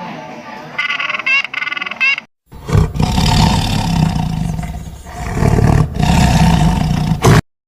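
A large animal roaring: two long, loud, deep roars, the second cut off abruptly. They come after a short stretch of high, repeated calls from the previous clip.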